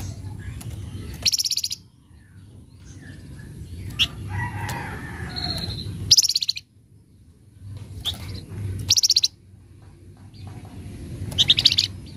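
Flamboyan songbird giving a rough, rapid chattering call in short high rattles, four of them a few seconds apart, with softer calls between, over a steady low hum.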